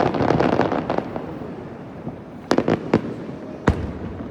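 Aerial fireworks going off: a dense crackle of small reports in the first second, then three sharp single bangs in the last two seconds.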